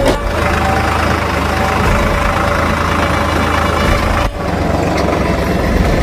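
A vehicle engine running, with a steady low hum that stops abruptly about four seconds in.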